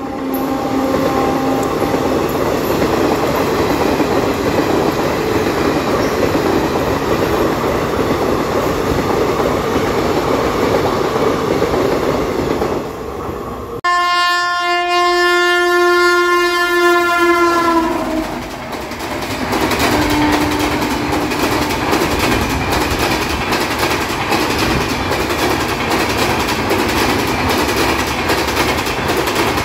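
Parcel train's vans rolling past at speed, a steady rumble and rattle, with the tail of a locomotive horn falling away in the first second. About fourteen seconds in, an Indian Railways electric locomotive's horn sounds for about four seconds, its pitch dropping at the end as it passes, and then the express's LHB coaches run past with a steady clatter and rumble.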